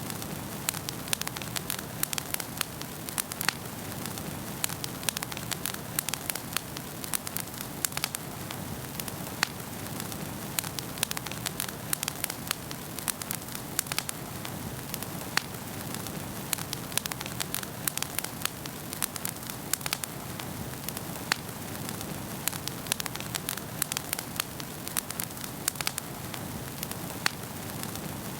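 Wood fire burning in a fireplace: frequent irregular sharp crackles and pops over a steady low rush of the flames.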